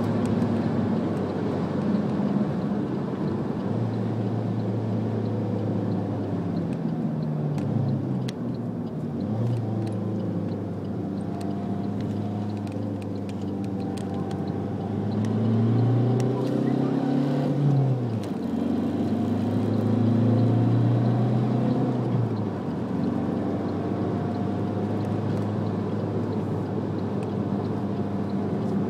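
Alfa Romeo MiTo's engine heard from inside the cabin while lapping a race track, with road and wind noise underneath. The engine pitch drops in several steps about a third of the way in, then climbs and falls back twice in the second half as the car accelerates through and out of corners.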